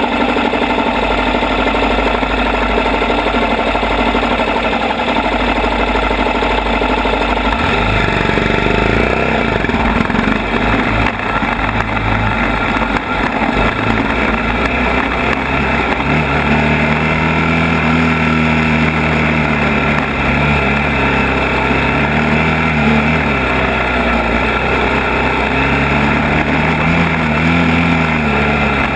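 ATV engine running steadily, then, a few seconds in, riding off with its revs rising and falling.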